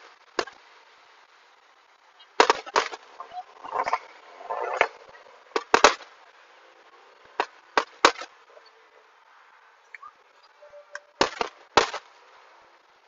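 Aerial fireworks shells bursting in the sky: sharp bangs at uneven intervals, several coming in quick pairs, with a lull of a couple of seconds near the end before another quick volley.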